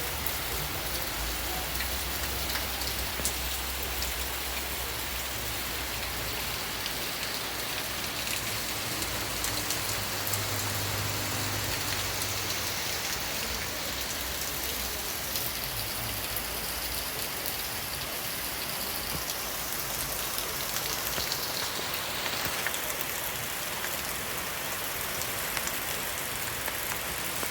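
Steady rain falling. A low rumble runs underneath through the first part and fades out partway through.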